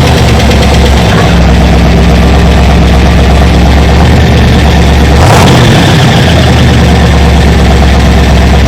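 Chevrolet 454 big-block V8 of a 1973 car idling, loud and steady, with a short change in its note about five seconds in.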